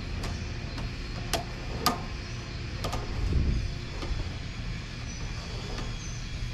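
Sewer inspection camera being pushed along a drain line: irregular sharp clicks and knocks, about half a dozen, over a low steady rumble.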